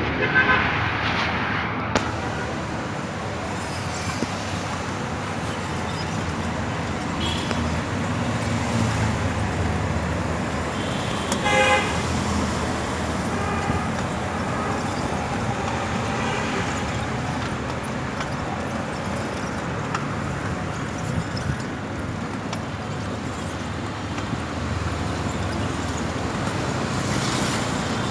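Busy road traffic running steadily, with vehicle horns honking briefly several times; the loudest honk comes a little before the middle.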